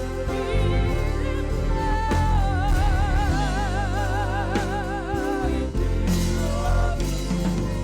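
Live gospel praise-and-worship music: a voice holds a long note with wide vibrato over steady band accompaniment with a deep bass line.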